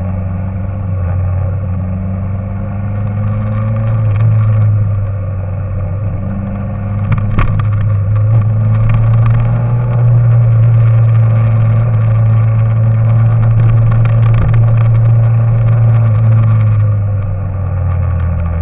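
An engine running steadily at a low pitch, a little louder through the middle, with a brief click about seven seconds in.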